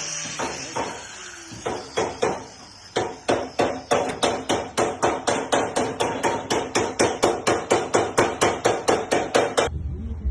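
Hammer striking sheet metal in panel beating on a car body panel: a few scattered blows, then a long run of quick, even blows at about four a second with a metallic ring, stopping abruptly near the end.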